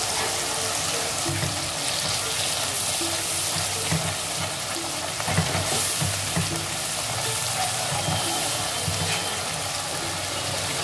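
Onion-tomato masala paste sizzling steadily in hot oil in a pan, with a silicone spatula stirring and scraping through it.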